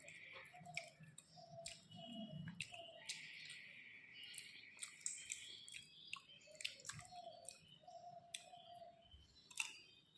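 Close-miked chewing of rice and curry, with many small wet mouth clicks and smacks. A run of short repeated tones sits faintly behind it.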